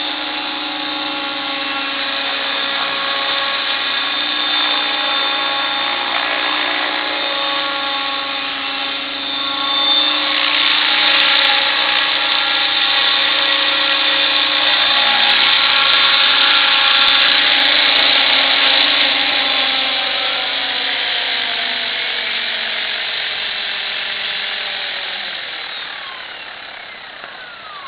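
Electric 50-size Bell 222 scale RC helicopter with Esmart mechanics running, its motor and gears whining steadily and its rotors swishing. The whine grows louder midway, then falls in pitch and fades over the last several seconds as the rotor spools down.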